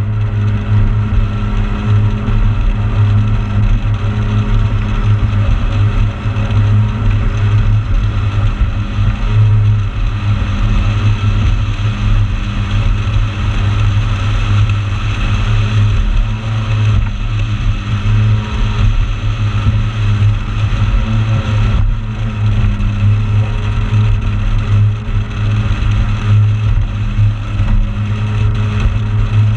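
Motorboat engine running steadily underway, a constant low drone that holds the same pitch throughout.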